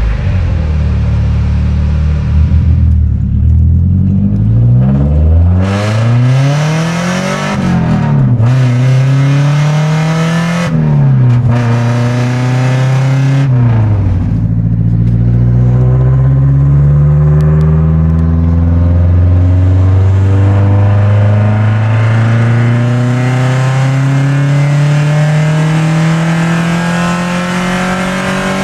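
Nissan S13 (200SX/240SX) engine and exhaust. It starts steady at the car's rear, then is heard from inside the cabin accelerating hard through the gears. The revs climb, drop sharply at each gear change and climb again, ending in a long, steady pull.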